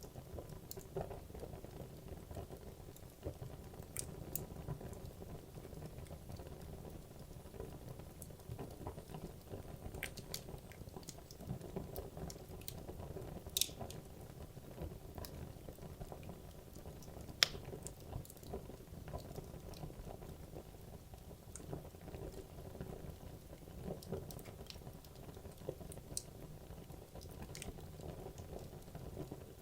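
Wood logs burning in a fireplace: a steady low rumble of flames with frequent small crackles and pops, and two louder snaps about 13 and 17 seconds in.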